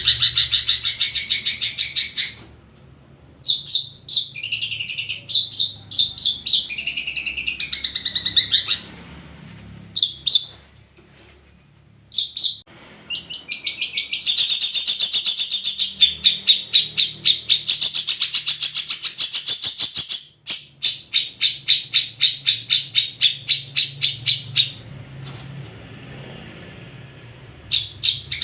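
Several long-tailed shrikes (cendet) singing together: loud, fast chattering phrases of rapidly repeated notes, broken by short pauses.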